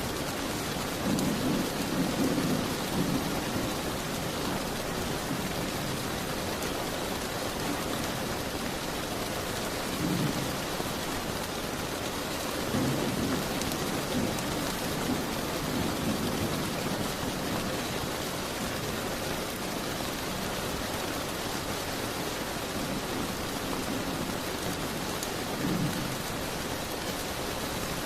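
Steady rain falling, with low rumbles swelling up several times.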